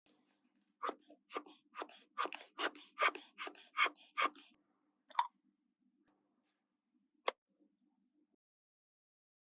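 A run of about a dozen short, crisp strokes, roughly three a second, as a small object is handled in close-up. Two single clicks follow.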